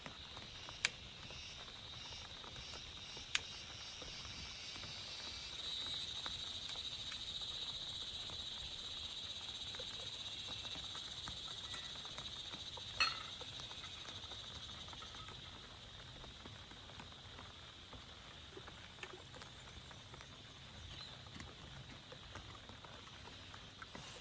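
A steady high-pitched chorus of calling animals, swelling about five seconds in and easing off after about fifteen, with three sharp taps standing out: about a second, three seconds and thirteen seconds in.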